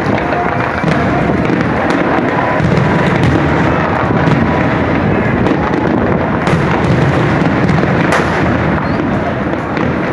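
Fireworks display going off in a dense, continuous barrage of bangs and crackles, with a few sharper reports about two-thirds of the way in.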